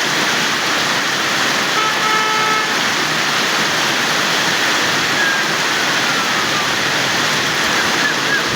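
Torrential rain pouring down and floodwater rushing, a loud steady hiss of water. A short horn-like tone sounds about two seconds in.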